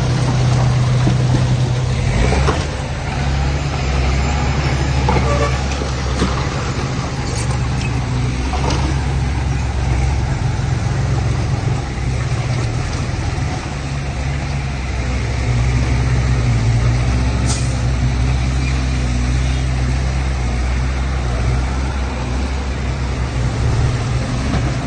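Heavy diesel engine of earthmoving machinery running steadily with a deep, low drone. A few short metallic knocks stand out, about two, six, nine and seventeen seconds in.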